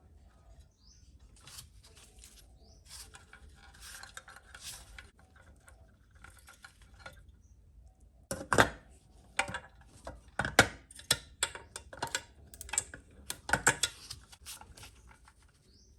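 Small hard parts and tools being handled during model kit assembly: soft rustling for a few seconds, then a run of sharp clicks and clinks from about halfway in.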